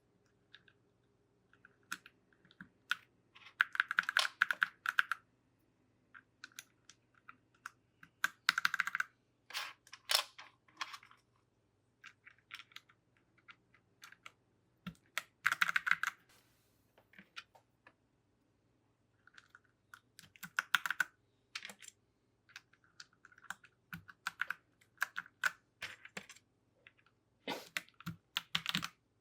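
Mechanical keyboard clacking as plastic keycaps are pressed back onto the switches. There are scattered single clicks and, four times, a short rapid run of clicks.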